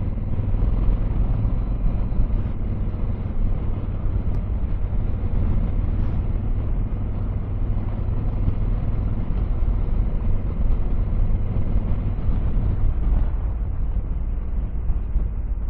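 Motorcycle engine running steadily while riding, with heavy low rumble and wind noise on the microphone.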